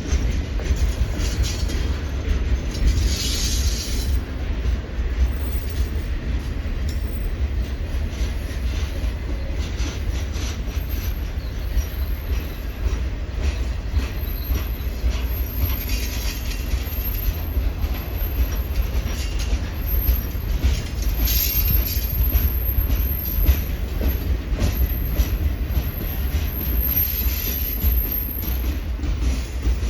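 Norfolk Southern Triple Crown RoadRailer train rolling past: a steady rumble of the trailers on their rail bogies, with wheel clatter and brief higher hissing passages.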